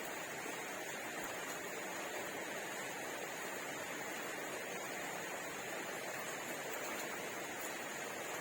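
Steady, even hiss of background noise, with no distinct sound standing out.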